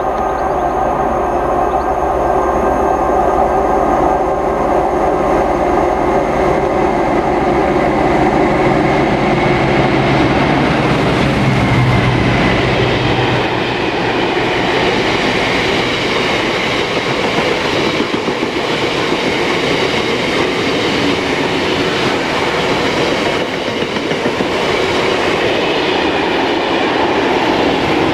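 Train passing close by: a steady locomotive engine drone for the first dozen seconds or so, then the wheels of the following vehicles rumbling and clattering over the rail joints as they roll past.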